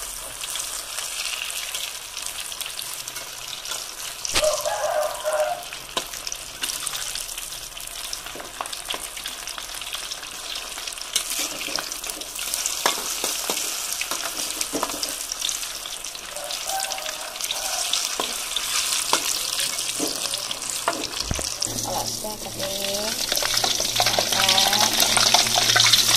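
Tempe and tofu slices deep-frying in hot oil in a wok: a steady sizzle with frequent crackling pops, louder in the last few seconds.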